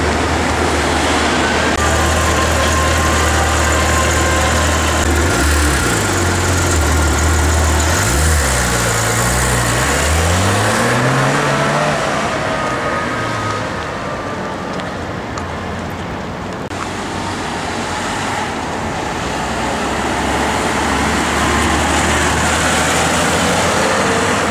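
Porsche GT3 RS flat-six engine running with a steady low note, its revs falling and rising several times about five to eleven seconds in, among street traffic noise.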